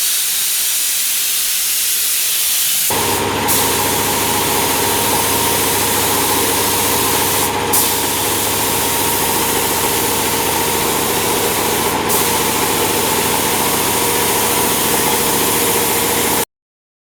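Air spray gun hissing steadily as it sprays primer, with short breaks about three times. A steady motor hum joins about three seconds in, and all sound cuts off abruptly near the end.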